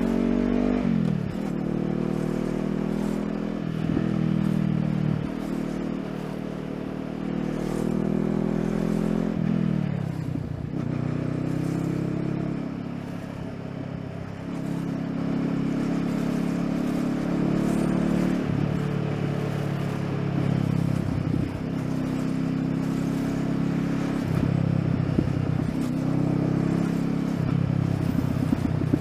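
Honda CBR500R's parallel-twin engine running while riding. Its pitch climbs through each gear and drops at each shift, several times over.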